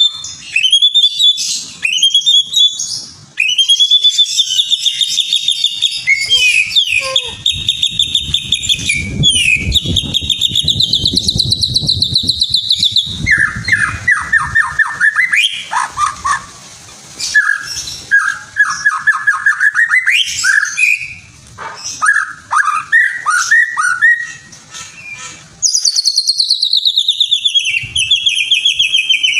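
Songbird singing a loud, varied song of fast trills and repeated chirping notes that switch to a new phrase every few seconds, the kind of song used as a 'pancingan' lure to provoke caged songbirds into singing.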